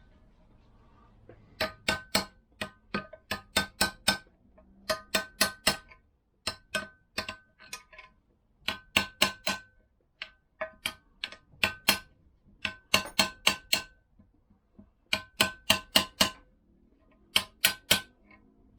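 Hammer tapping in quick runs of three to five ringing metallic blows with short pauses between: driving a new rubber kickstart buffer into a Vespa PX engine side case, bit by bit, until it sits level.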